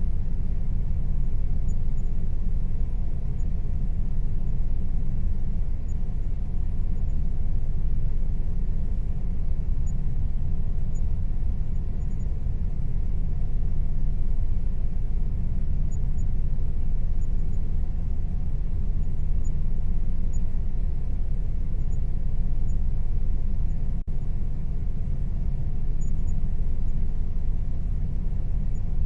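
Air conditioner running steadily: a constant low rumbling hum with a faint steady tone above it.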